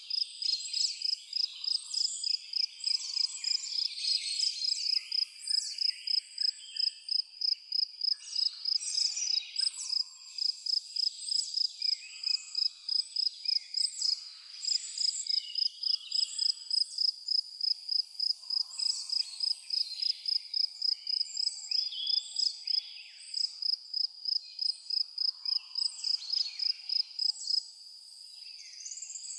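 A cricket chirping in a steady, even rhythm of about two to three high chirps a second, pausing briefly near the end, while several songbirds call and sing over it.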